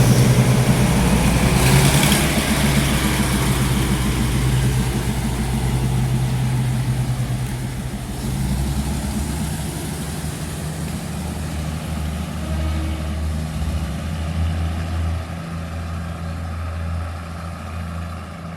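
Diesel train engine running with a steady low hum that slowly fades, with a brief hiss about two seconds in.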